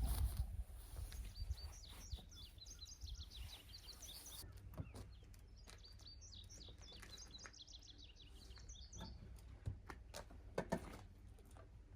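A songbird singing two songs of rapid, repeated high chirps, each about three seconds long, a second apart. A few faint knocks follow near the end.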